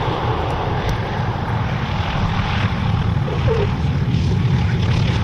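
Boeing B-17 Flying Fortress's four Wright Cyclone radial engines running as the bomber comes in to land: a steady low drone with propeller noise.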